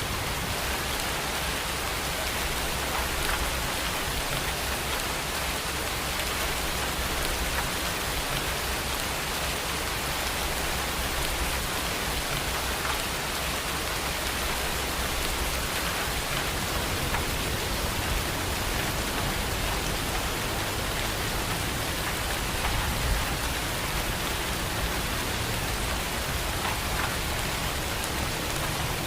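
Steady rain falling, an even hiss with the patter of drops on surfaces.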